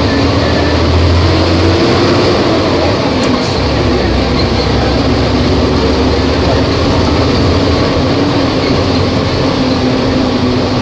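Volvo B270F bus's diesel engine running steadily, its note drifting slightly up and down.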